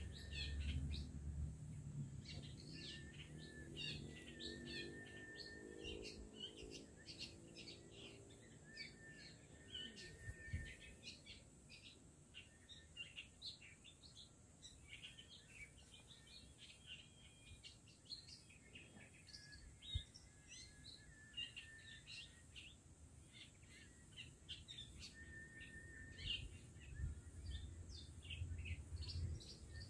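Wild long-tailed shrike (cendet) singing faintly: a fast, varied chatter of short chirps broken by brief flat whistles, over a steady high hiss.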